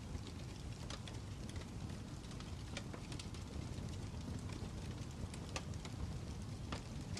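Fire crackling: a steady low rumble with frequent, irregular sharp pops and snaps.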